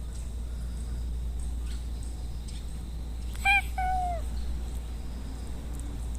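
Stray cat meowing once, about three and a half seconds in: a short loud note, then straight away a longer note that falls in pitch.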